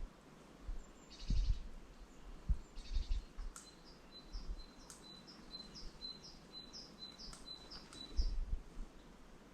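Small songbirds calling at a feeder: two short buzzy chatters, then a bird repeating a quick high two-part phrase about twice a second for several seconds. A few dull low thumps come in between.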